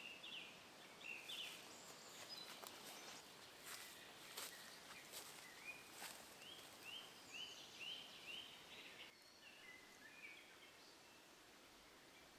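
Small bird calling faintly: a series of short, rising chirps, several in quick succession partway through, with a few sharp clicks in the middle.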